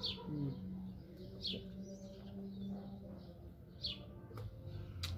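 Small bird chirping: short high notes that fall in pitch, repeated every second or two, over a low steady hum.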